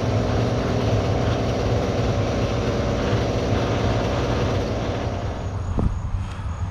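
An engine running steadily; its sound thins out and drops about five and a half seconds in, leaving a lower hum.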